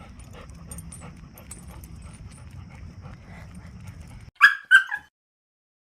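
Faint walking sounds with small scattered clicks, then, about four and a half seconds in, two quick loud dog yips, the last falling in pitch.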